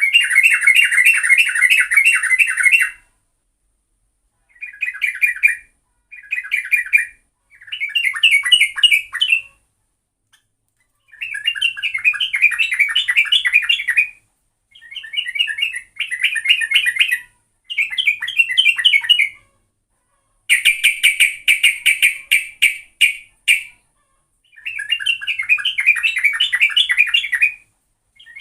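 Yellow-vented bulbul (trucuk) song used as a lure call: short bubbly, chattering phrases of one to three seconds, repeated about ten times with brief silent gaps.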